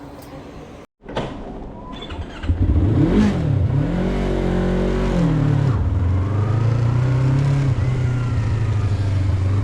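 Yamaha MT-03 motorcycle engine picking up about two seconds in, revving up and back down, then settling into a steady run.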